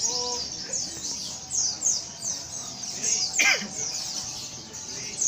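Many white-eyes (pleci) singing at once: a dense chorus of quick, high, falling chirps, with one louder falling note about three and a half seconds in.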